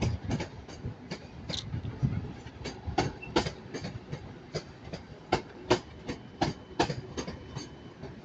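Northern Class 323 electric multiple unit arriving, its wheels clicking over rail joints and pointwork in quick pairs as each bogie passes.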